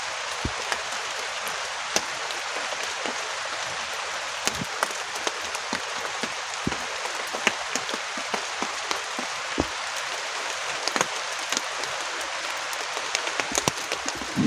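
Heavy rain falling steadily, a dense even hiss, with frequent sharp single taps of drops striking close by.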